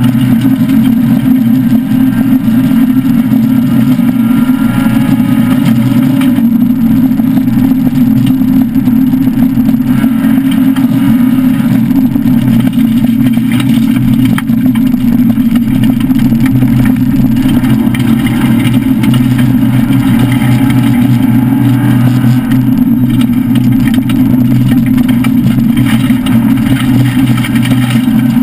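Citroën SM Bandama's Maserati V6 running hard under load, heard loud from inside the cabin as a steady drone, rising slightly in pitch about two-thirds of the way through.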